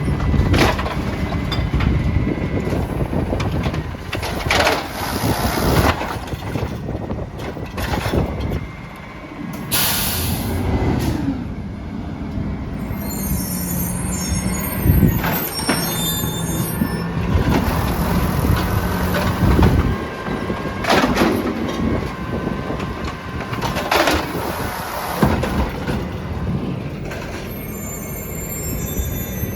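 Peterbilt 320 garbage truck running, with a short air-brake hiss about ten seconds in and repeated knocks and clatter throughout.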